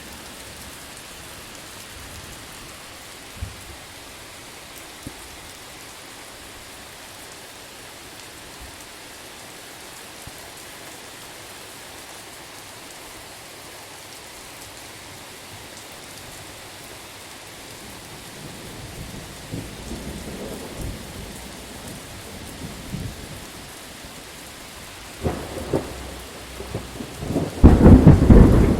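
Thunderstorm: steady rain falling, with low thunder rumbles building from about two-thirds of the way in and a loud clap of thunder crashing near the end.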